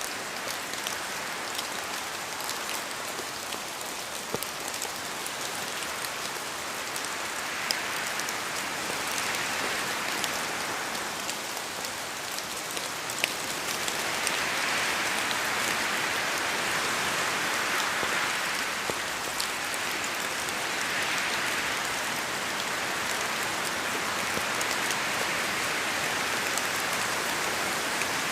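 Steady rain falling in a forest, a dense hiss with scattered sharper ticks of single drops, swelling slightly in waves at times.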